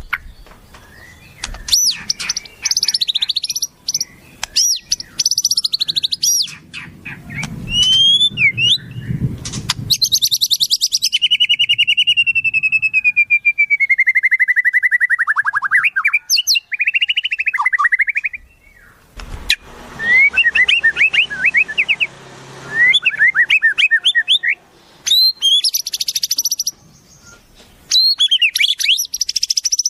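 Wild songbirds calling and singing in quick succession: high chirps and whistled trills, a long buzzy trill that slides steadily down in pitch for several seconds, then bursts of quick rising chips.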